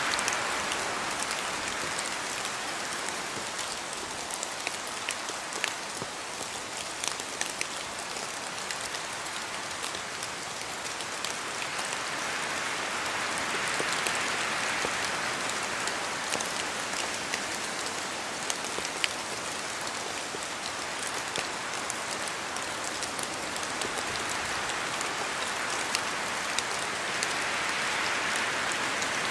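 Steady rain falling on forest trees, with scattered sharp drips of drops falling from the leaves. The rain hiss swells and eases in slow waves, louder about halfway through and again near the end.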